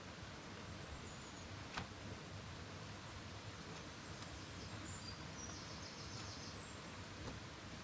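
Steady outdoor background noise with faint, short, high bird chirps, and one sharp click nearly two seconds in followed by a few fainter ticks.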